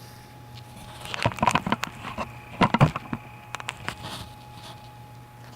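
A quick run of metallic clanks, knocks and scrapes from tools and parts being handled on the axle work, loudest in two clusters about a second in and near the middle, over a steady low hum.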